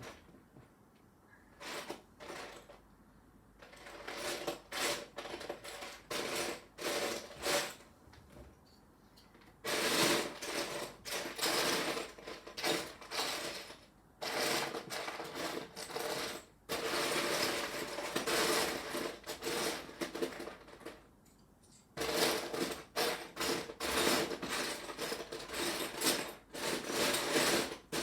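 Plastic Lego pieces clicking and clattering as they are rummaged through and handled. There are scattered clicks at first, then long stretches of busy rattling with short pauses between them.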